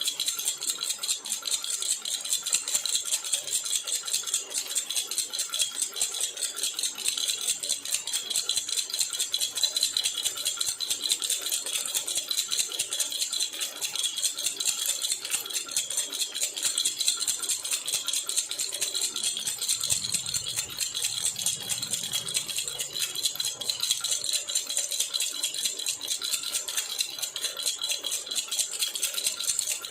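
A jhunjhuna baby rattle being shaken steadily and rapidly: an unbroken stream of quick, bright rattling strokes.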